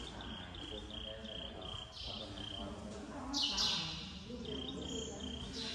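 A small bird chirping in a quick run of short, evenly pitched notes, about five a second, pausing and then starting a second shorter run, over a low murmur of voices in the hall.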